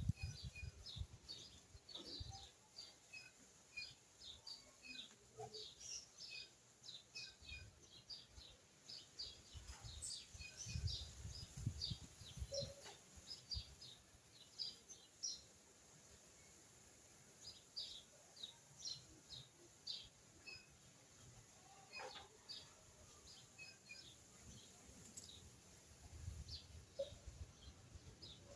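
Faint outdoor birdsong: many short, high chirps from small birds, several a second, with a few low rumbles of wind or handling noise.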